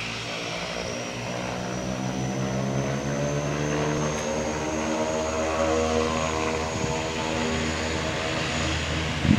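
Dash 8 Q300's twin Pratt & Whitney Canada PW123 turboprops at take-off power: a steady propeller buzz with a thin high turbine whine, its tones sliding slowly lower in pitch through the middle. A brief low bump near the end.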